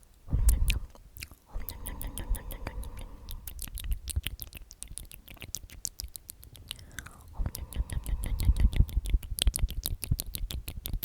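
Close-miked ASMR whispering of the word "omnomnom" over and over, with many quick wet mouth clicks and smacks.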